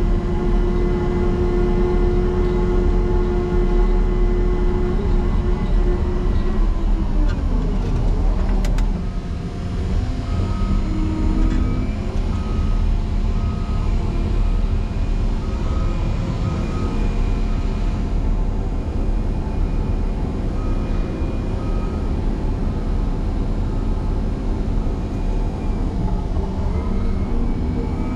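Diesel engine of a Caterpillar 140M motor grader working hard in snow. Its pitch drops off partway through, then a backup alarm beeps steadily while the machine reverses for another run, and the engine picks up again near the end.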